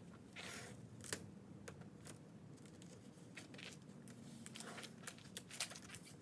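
Painter's tape being pulled off the roll and pressed down, in short tearing strips with scattered clicks and crinkles.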